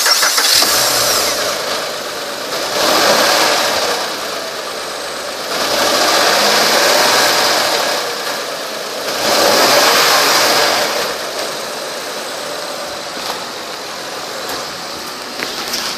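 A 2005 Acura RL's 3.5-litre V6 running just after a start. Its sound swells louder three times and eases back each time.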